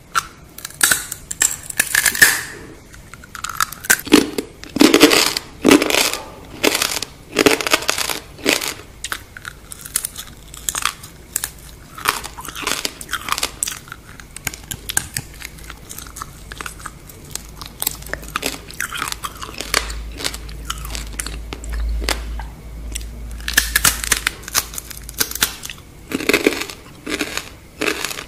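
Crunching and chewing of deep-fried scorpion, the crisp fried shell cracking between the teeth in many short, irregular bursts, with a quieter stretch about midway.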